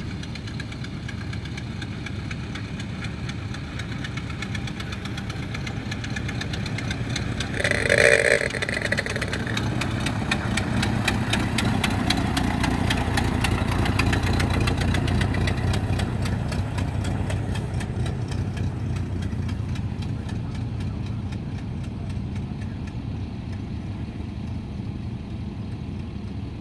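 Ford Model A's four-cylinder engine running as the car drives slowly over grass. It grows louder as the car passes close, about twelve to sixteen seconds in, then fades as it pulls away. A brief loud blast sounds about eight seconds in.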